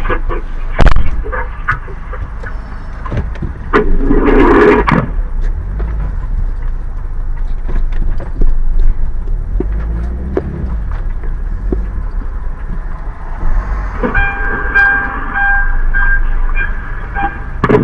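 Low rumble of a car rolling along on the road, with a sharp knock about a second in and a louder rattling burst around four to five seconds. Near the end a pitched tone sounds for about three seconds, breaking off briefly a few times.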